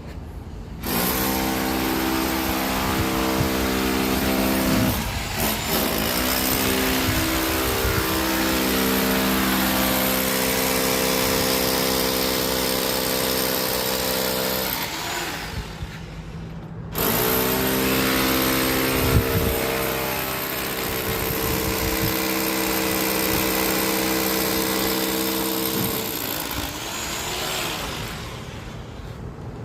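Electric power tool motor running in two long bursts, each spinning up quickly to a steady whine with a short pause between them.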